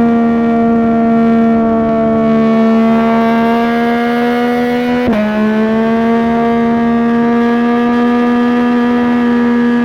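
Yamaha MT-09 three-cylinder engine through a Dominator GP3 aftermarket exhaust, pulling steadily under gentle acceleration at highway speed. The pitch climbs slowly, drops sharply with one quick upshift about halfway through, then climbs again.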